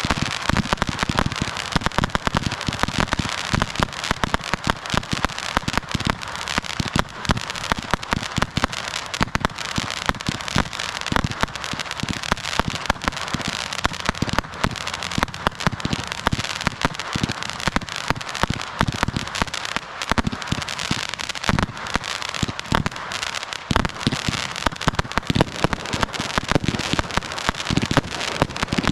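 Fireworks going off without a break: dense, rapid crackling and popping with frequent heavier bangs mixed in.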